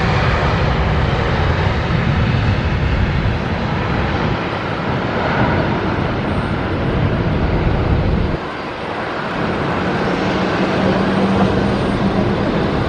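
Jet airliner engines running, with strong gusty wind rumbling on the microphone. The low rumble drops off abruptly about eight seconds in, and a steady low hum comes in a couple of seconds later.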